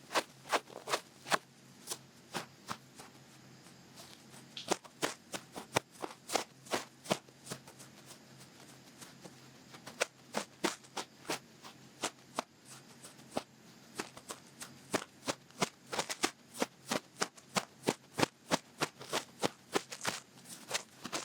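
Long fluffy-tipped ear pick scratching and brushing in an ear in quick crackly strokes, about two to three a second, with a couple of brief lulls.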